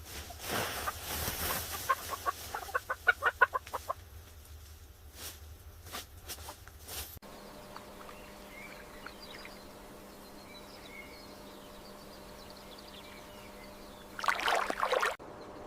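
Chickens clucking, with a quick run of clucks about two to three and a half seconds in and a few sharp clicks after it. After an abrupt change the sound drops to a faint steady hum with faint bird chirps, and near the end comes one loud animal call that falls in pitch.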